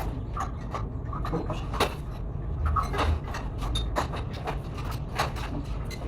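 Irregular knocks and clicks of work on an interior construction site, over a steady low rumble.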